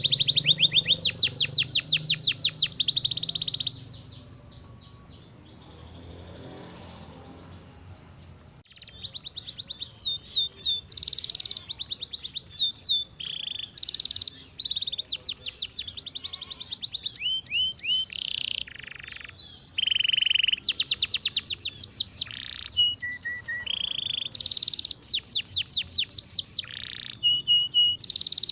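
Domestic canary singing: fast, rattling trills of repeated notes mixed with short whistled phrases. It falls quiet for about five seconds early on, then sings on with trill after trill.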